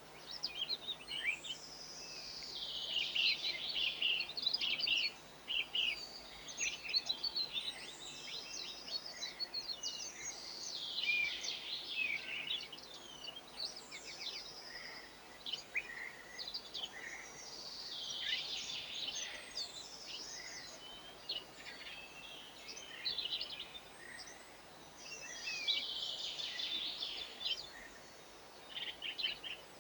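Small garden songbirds chirping and twittering, several at once, in busy overlapping bursts of short high notes.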